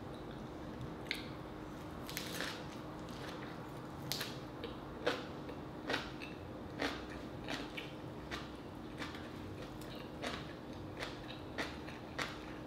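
A person chewing a big mouthful of lettuce wrap with chicken, rice, kimchi and radish. It comes as irregular crisp crunches and wet mouth clicks, roughly one or two a second.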